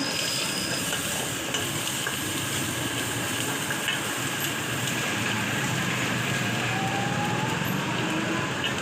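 Food sizzling steadily as it fries in hot oil, with a steady low rumble underneath.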